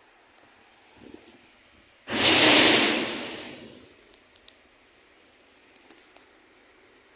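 Garbage truck's air brakes releasing: one loud, sudden hiss of compressed air about two seconds in, fading away over a second or two.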